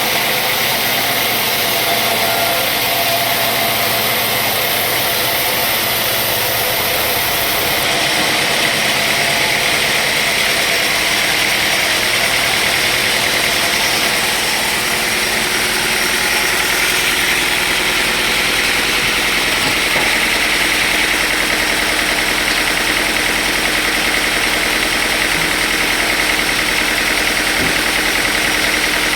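Sawmill machinery running steadily, a loud continuous mechanical noise with a strong high hiss and no breaks.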